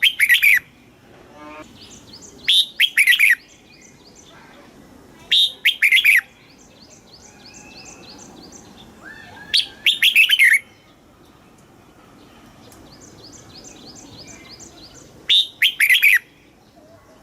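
Red-whiskered bulbul singing: five loud, short, whistled phrases of a few quick notes each, coming every three to five seconds. Between them run softer, rapid series of short repeated chirps.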